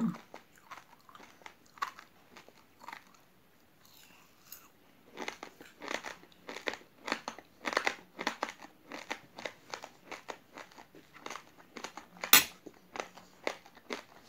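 Chewing a mouthful of uncooked rice grains with jelly: after a few quiet seconds, rapid crisp crunches of the hard raw rice, with one loudest crunch near the end.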